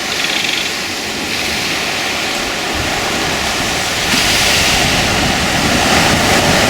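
Steady rushing noise, strongest in the upper range, swelling louder about four seconds in.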